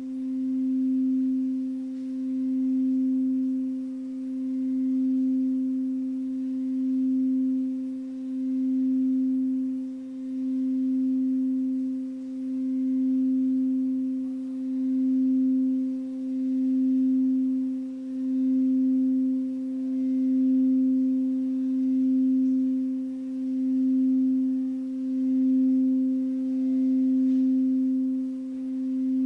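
Singing bowl held in one sustained, pure tone with a faint overtone, pulsing gently in loudness about every two seconds.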